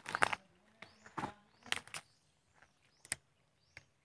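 Short, high bird chirps, each a quick rising note, repeating about once a second among several sharp clicks.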